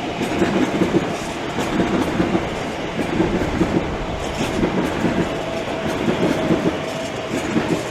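Class 345 Aventra electric multiple unit passing through, its wheels clattering rhythmically over the rail joints, with a faint steady whine in the second half.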